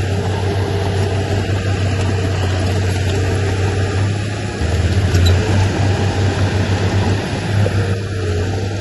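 Diesel engine of heavy earthmoving machinery running steadily with a deep hum, working harder and louder for a few seconds from about halfway through.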